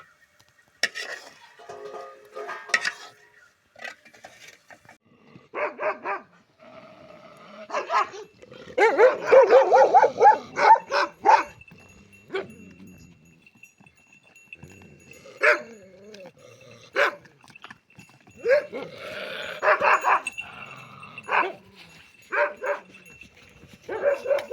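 Dog barking repeatedly in bouts, with a dense run of barks near the middle and more later on. A faint steady high tone sounds under the second half.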